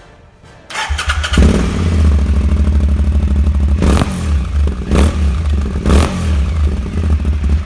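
Aprilia Shiver 750's V-twin engine, breathing through twin Akrapovic titanium exhausts, is cranked on the starter and catches quickly, then idles. There are three short throttle blips about a second apart.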